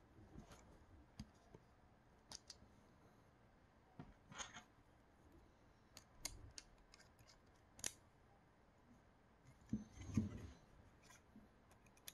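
Small metal parts and hand tools clicking and tapping as a 3D-printer extruder is worked on by hand: scattered faint sharp clicks, a short rasp about four seconds in, and a louder knock with a brief rustle near the end.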